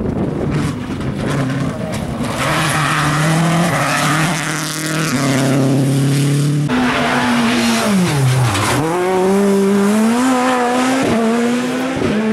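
Rally car engines at full throttle, climbing in pitch through a series of gear changes. About eight seconds in, one engine drops sharply in pitch as the car slows, then climbs again as it accelerates away.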